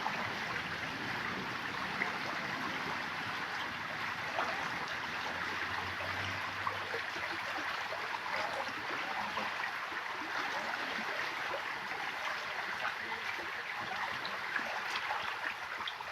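River water running in a steady, even rush, the river high and flooding after heavy rain.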